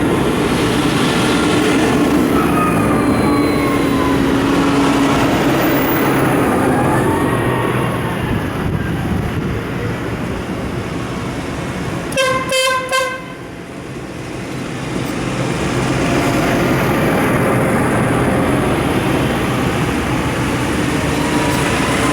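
Tractors driving past, their engines running in a steady din. About twelve seconds in, a horn sounds for about a second.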